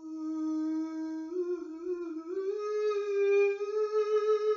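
One unaccompanied voice holding a long sung note that steps up in pitch twice and grows louder toward the end.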